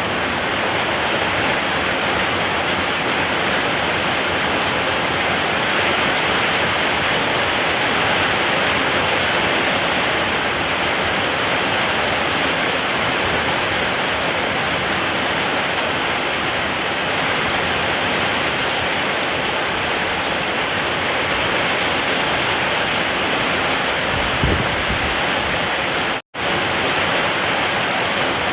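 Steady rain, an even unbroken hiss, with a split-second gap near the end where the sound cuts out completely.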